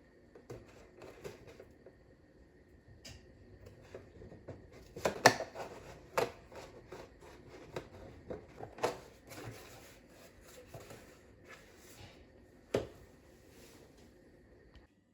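Irregular light knocks, clicks and rustles of objects being handled, with sharper knocks about five, six, nine and thirteen seconds in, cutting off abruptly just before the end.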